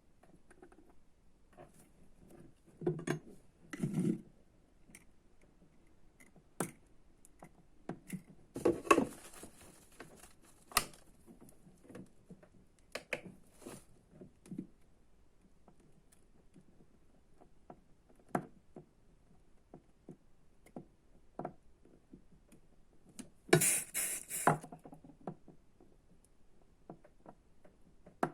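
Hands working at a bench: scattered light clicks and taps of small tools and parts being handled, with two brief rustling, scraping bursts, one about a third of the way in and one near the end.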